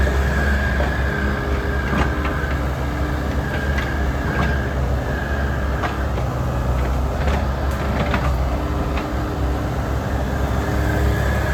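Takeuchi excavator's diesel engine running under load with a steady high hydraulic whine, its pitch shifting as the hydraulics work. Scattered sharp cracks and knocks sound several times through it.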